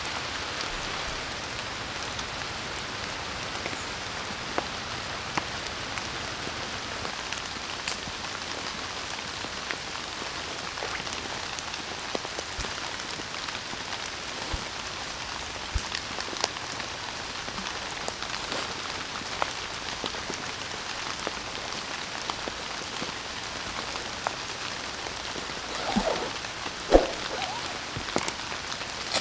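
Steady rain falling, with scattered single drops tapping. Near the end come a few louder knocks and rustles.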